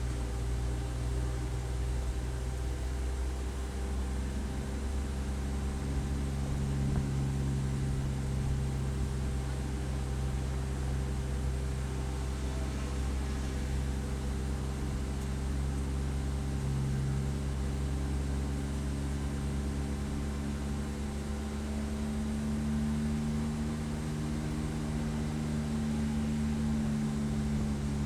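Race car engine running at a fairly steady pitch, with only slight rises and falls, over a steady rushing noise.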